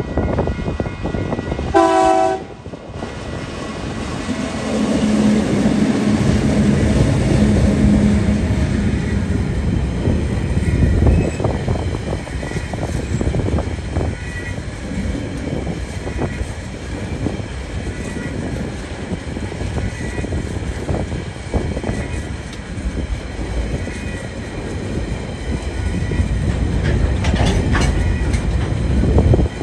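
TasRail TR-class diesel-electric locomotives hauling a container freight train past. A short horn blast sounds about two seconds in, then the locomotives' engines run by with a steady drone. After that the container wagons keep rolling past with a continuous rumble and clickety-clack of wheels on rail joints.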